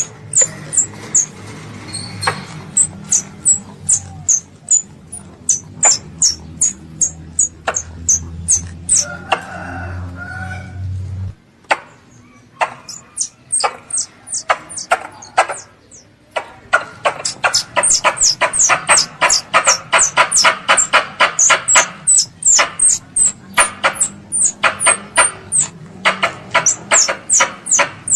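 Squirrel giving a long series of short, high-pitched squeaky chirps, about three or four a second, coming faster and fuller for a few seconds in the second half. A low hum runs underneath and cuts off suddenly about 11 seconds in.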